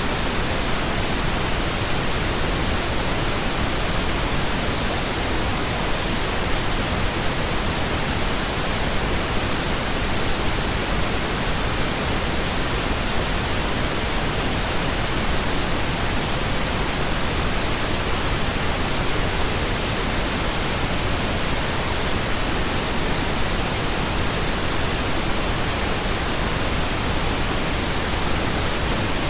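Pink noise: a steady, even hiss across all pitches, unchanging throughout.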